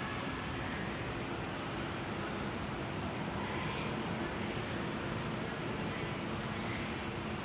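Steady background noise with a low, even mechanical hum and no changes.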